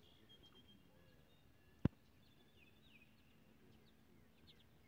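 Faint outdoor ambience with small birds chirping on and off, and a single sharp click about two seconds in. A faint steady low hum runs through the second half.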